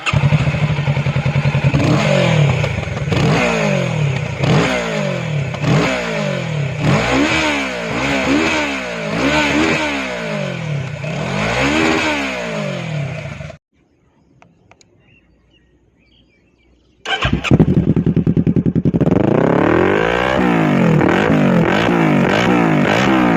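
Kawasaki Ninja motorcycle with a Mivv full-system exhaust, its engine revved again and again in short blips that rise and fall in pitch. The sound cuts off about 13 seconds in and goes near silent for a few seconds. It then comes back idling steadily and is blipped again in quicker revs.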